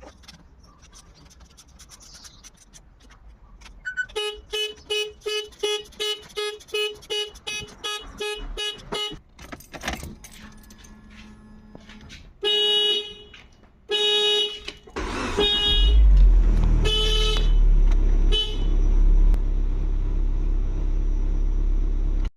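A car's electrics coming alive on a freshly charged battery: a run of quick, evenly spaced beeps, then two short horn toots, then about fifteen seconds in the engine starts and keeps running, with a few more short toots over it.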